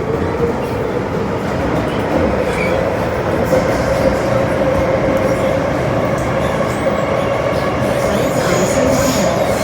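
Metro-Cammell M-Train electric multiple unit running steadily between stations, heard from inside the car: an even rumble of wheels on rail with a constant mid-pitched tone running through it.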